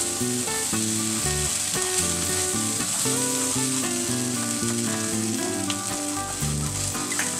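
Onion masala sizzling and frying in a non-stick pan as it is stirred with a wooden spatula, with ginger-garlic paste being mixed in. Background music plays under the sizzle.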